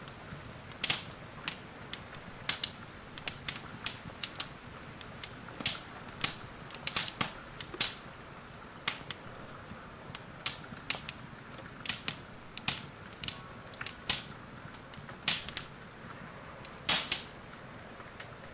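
Wood fire in a fireplace crackling, with irregular sharp pops of varying loudness, a louder one near the end, over a faint steady hiss.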